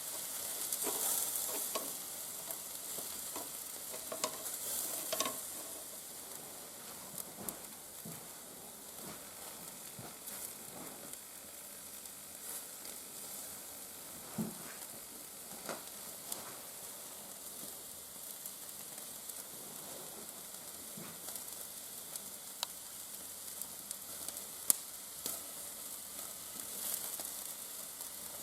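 Shashlik on skewers sizzling over a wood fire in a fireplace: a steady hiss with scattered sharp crackles, a little louder for the first few seconds.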